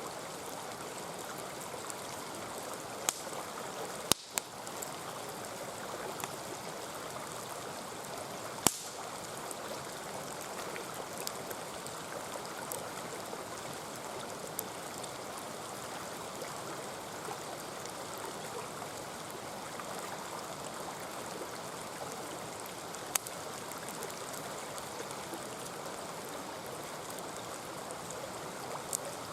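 A mountain stream flowing and burbling steadily, with a few sharp pops from a burning wood campfire, the loudest about 8 seconds in.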